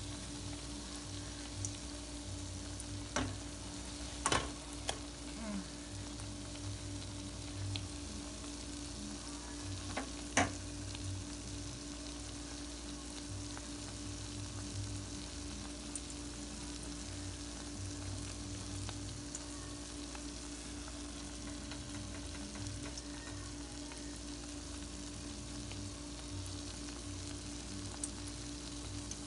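Okra-and-egg omelet patties sizzling steadily as they shallow-fry in hot oil in a pan, with a few sharp clicks in the first ten seconds.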